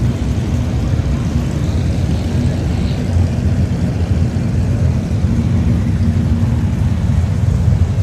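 Engines of a slow-moving line of show cars idling and creeping past, a steady low rumble.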